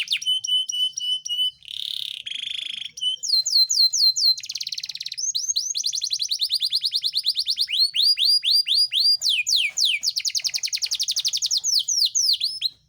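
Yorkshire canary singing a long, unbroken song: rapid trills of repeated notes, fast downward-sweeping whistles and two short harsh buzzy rolls, cutting off abruptly near the end.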